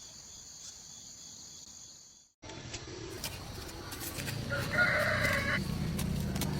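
Insects chirping in a steady high trill, which stops abruptly at a cut. Then a rooster crows once, about five seconds in, over a rural background with light knocks.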